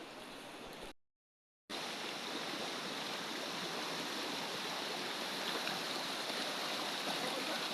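Steady rush of flowing water, an even noise with no breaks, starting after a brief silent gap about a second in.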